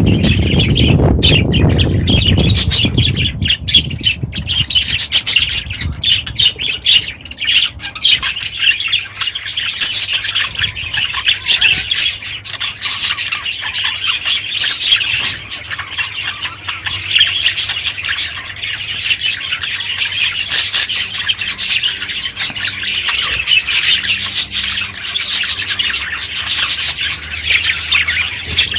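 A flock of budgerigars chattering, with many overlapping chirps and squawks going on continuously. A low rumble sits under the calls for the first couple of seconds.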